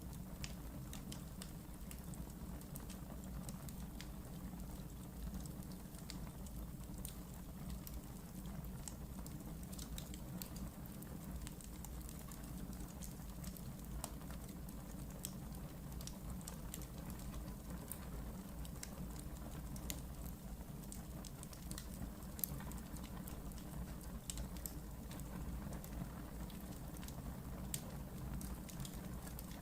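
Wood fire burning in a fireplace: a steady low rumble of flames with scattered sharp crackles and pops, a couple of louder pops in the second half.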